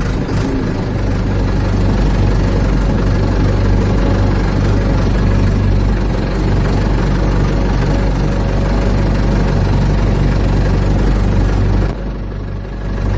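Ford 755 backhoe's engine running steadily, with a heavy low drone; its level drops about twelve seconds in.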